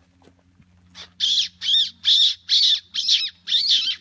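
A person making a rapid series of about seven high-pitched squeaks with the mouth, imitating a small bird. This birders' squeaking is meant to draw in curious small birds, woodpeckers and owls.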